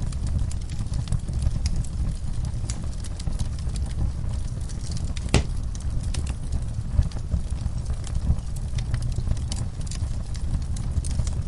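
Wood fire crackling in a fireplace: scattered sharp pops over a steady low rumble, with one louder pop about five seconds in.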